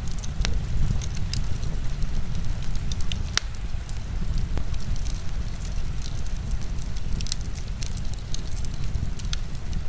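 Wood fire crackling and popping, with scattered sharp snaps over a steady deep rumble of heavy rain.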